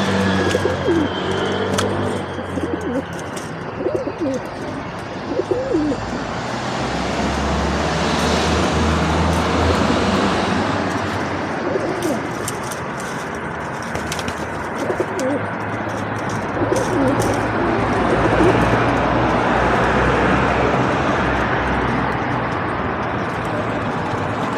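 Feral pigeons cooing in short low calls, with scattered sharp clicks, over a steady background hum.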